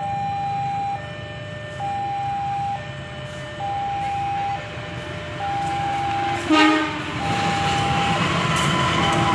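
Level-crossing warning alarm alternating between two tones, high and low, about once a second. About six and a half seconds in comes a short, loud horn blast from the approaching KA Dharmawangsa train, and its running noise then swells and stays loud.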